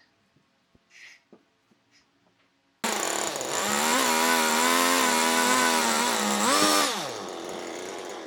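Chainsaw starting suddenly about a third of the way in and running steadily at high revs. Near the end it revs briefly higher, then drops back. Before it there are only a few faint knocks.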